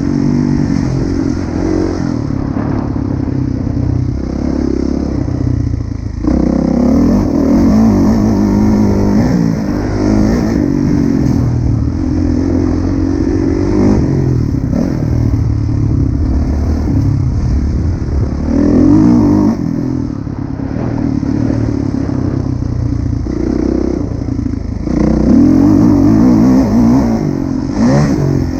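Kawasaki KX450F four-stroke single-cylinder motocross bike running hard on a track, its engine revving up and dropping back again and again with the throttle and gear changes, with a short lull about six seconds in.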